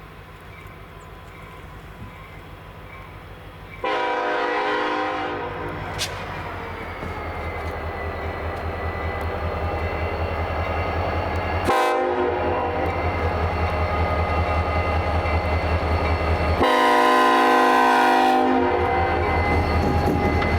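Diesel locomotive horn sounding two long blasts about thirteen seconds apart, with a brief sharp sound between them, over the rumble of the locomotive's engine growing steadily louder as the train approaches.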